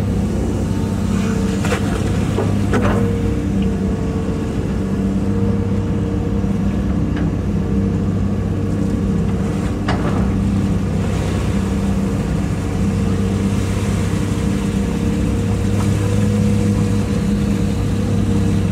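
Hitachi EX200-5 excavator's diesel engine running steadily under load as the machine works its way back up out of the pond, with a steady higher whine over the engine note. A few short knocks and clanks come through, about two and three seconds in and again about ten seconds in.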